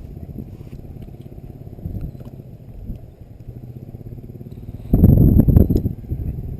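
Wind buffeting the microphone as a steady low rumble, with a stronger gust about five seconds in.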